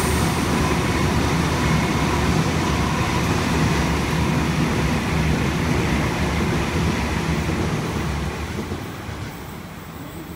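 Electric double-deck commuter train (Sydney H set) passing at speed: a steady rumble and rush of wheels on rail that fades away near the end as the train moves off.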